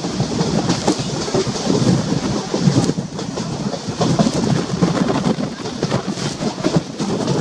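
Passenger train coach running along the track: steady wheel-and-rail running noise with scattered clicks of the wheels over the rails.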